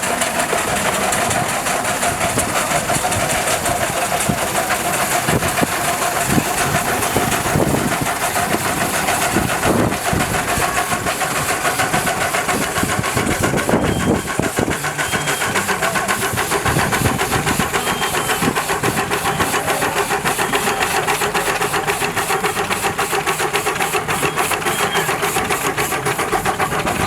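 An engine running steadily, with a hiss over it and a fast, even beat.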